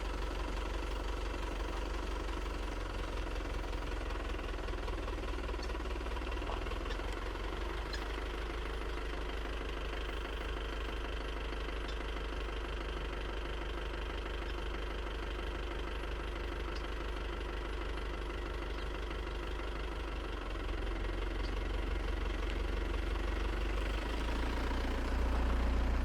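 Vehicle engine idling with a steady low rumble, growing slightly louder over the last few seconds.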